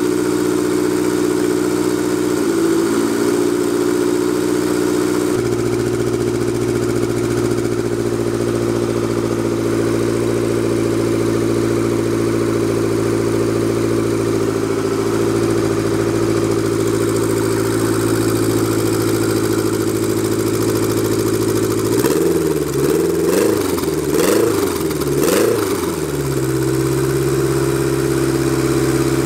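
Quad-turbo Honda Civic's B16 four-cylinder engine idling steadily. About three quarters of the way through, the engine speed rises and falls a few times before settling back to idle.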